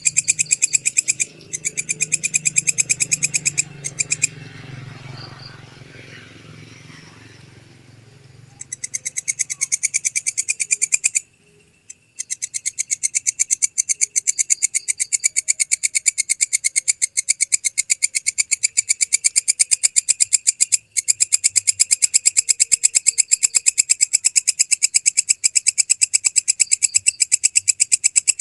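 Walang kecek katydid stridulating: a long run of rapid, evenly spaced, high-pitched rasping pulses. The pulses stop for several seconds about four seconds in, leaving a low hum, and drop out again briefly near the middle.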